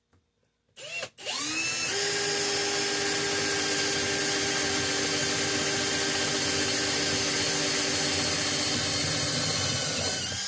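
Electric drill motor spinning up with a rising whine about a second in, then running steadily at full speed for about nine seconds before stopping suddenly.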